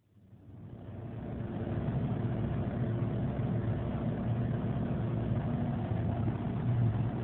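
Car engine idling steadily, heard from inside the cabin: a low, even hum that rises over the first couple of seconds and then holds.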